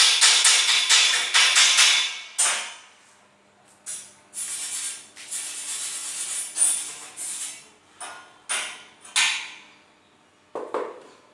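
Music with a fast tambourine beat stops about two seconds in. It is followed by short, irregular bursts of hissing crackle, as from arc welding on a steel grill.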